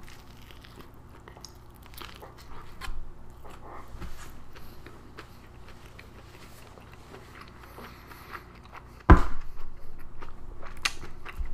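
Close-miked chewing of a soft Korean egg-and-cheese toast sandwich, with small wet clicks and crackles from the mouth. About nine seconds in there is a sudden loud thump, followed by a couple of seconds of louder crackly noise.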